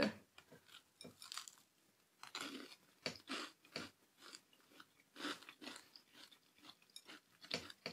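A person biting and chewing a crunchy-edged maple ginger cookie: irregular crisp crunches with short pauses between.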